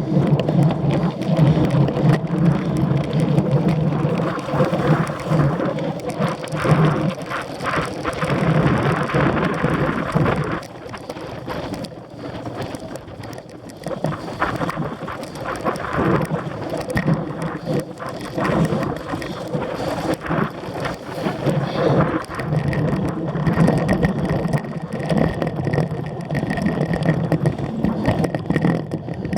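Cyclocross bike ridden over a rough course: a steady rumble of tyres and rattling bike parts, with many small clicks and knocks, easing somewhat about halfway through before picking up again.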